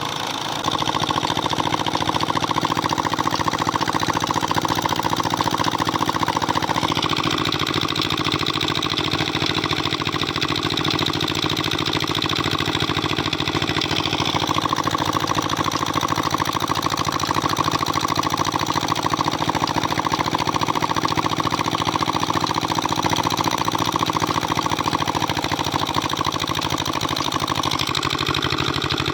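A 20 HP Lister-type diesel engine driving a borewell water pump, running steadily at an even speed.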